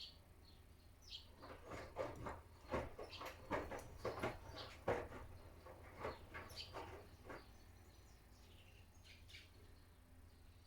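Miele W1 front-loading washing machine tumbling a cotton wash: wet laundry and water slosh and slap irregularly in the turning drum over a low motor hum. The drum then stops for its pause about three quarters of the way through, leaving only the hum.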